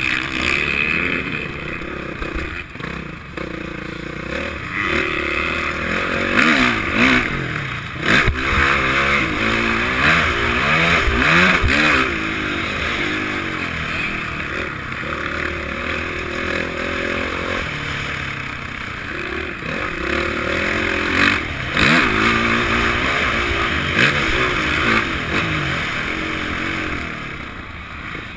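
Honda CRF450 motocross bike's four-stroke single-cylinder engine revving up and falling off again and again as it is ridden round the track, heard from the rider's helmet, with wind rush and clattering knocks.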